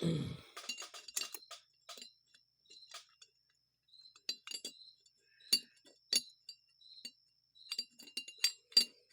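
Small metal carburetor parts clinking and tapping together in irregular light clicks as they are worked into place by hand during a Rochester Model H carburetor rebuild.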